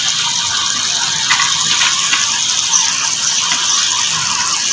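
Onion-tomato masala sizzling and bubbling in hot oil in a metal karahi: a steady, even hiss.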